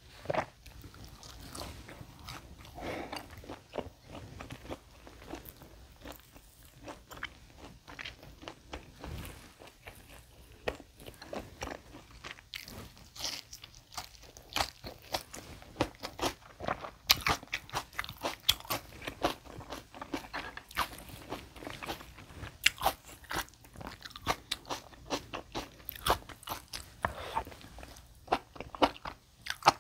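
A person chewing and biting tomahawk steak close to the microphone: many quick, crisp mouth clicks and wet smacks, coming thicker in the second half.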